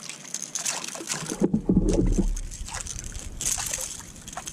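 Handling noise in a fishing kayak: scattered knocks and rustles, with a louder thud about a second and a half in.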